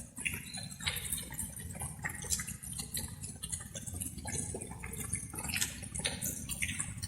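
Light rain: many irregular drops dripping and pattering over a steady low wash of rain noise.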